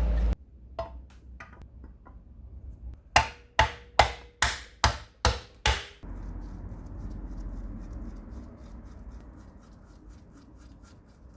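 A loud running sound cuts off at the start, followed by seven sharp knocks about two a second, like hammer taps on a tool. Then a low steady noise sets in and slowly fades.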